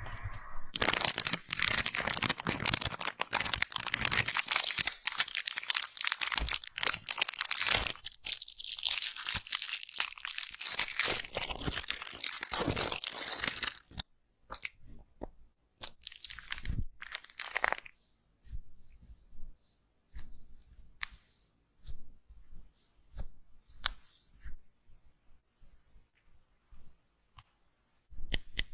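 Slime being squished and pulled apart close to the microphone, crackling and popping. The crackle is dense for about the first half, then thins out to scattered pops and crackles. A short lull near the end is followed by a run of quick clicks.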